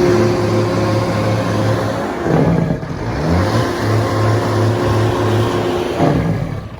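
Truck engine revved up and held at high revs, dropping back about two seconds in, then revved up and held again and dropping off near the end.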